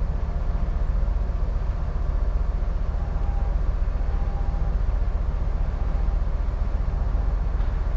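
Steady low rumble aboard a container ship, with a faint hiss above it; a faint thin tone comes in for about a second and a half near the middle.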